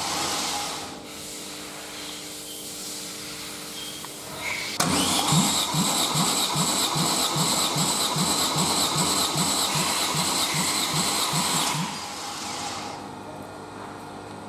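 Opel Astra F engine being turned over by its starter motor without firing, the pulses of each compression stroke coming evenly about two and a half times a second, as in a compression test. The cranking stops just under a second in, starts again sharply about five seconds in, and stops near the end.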